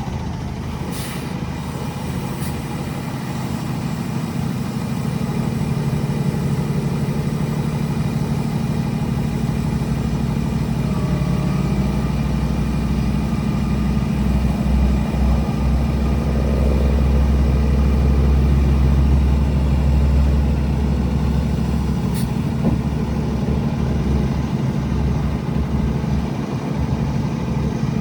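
Diesel engine of a Freightliner M2 112 dump truck idling steadily. A deeper low rumble swells for several seconds past the middle and then eases back.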